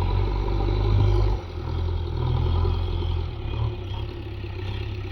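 JCB backhoe loader's diesel engine running under varying load, the low engine note rising and easing, with a drop in level about a second and a half in and another near the middle.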